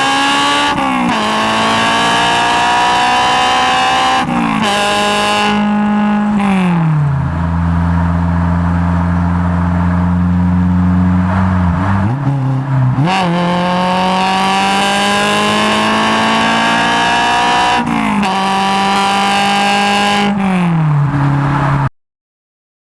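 Honda S2000's F20C four-cylinder engine through a Spoon N1 single-exit exhaust with the catalytic converter removed, heard from the rear number-plate recess, accelerating hard through the gears: the pitch climbs and drops sharply at each upshift. In the middle it settles to a lower, steady note for a few seconds, then climbs through the gears again before cutting off suddenly near the end.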